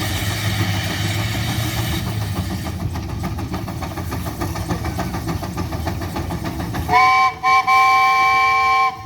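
Steam engine working hard with a fast rhythmic exhaust chuff. About seven seconds in, its steam whistle blows a loud chord in two quick toots, then one long blast that cuts off near the end.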